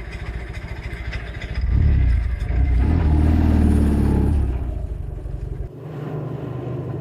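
Ural IMZ-100 motorcycle engine running, swelling louder about two seconds in as it revs, then dropping suddenly to a quieter, lower running sound near the end.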